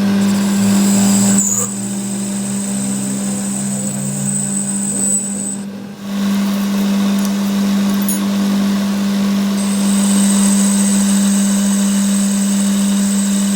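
A steady machine hum over a background hiss, dipping briefly about a second and a half in and cutting out for a moment around six seconds in.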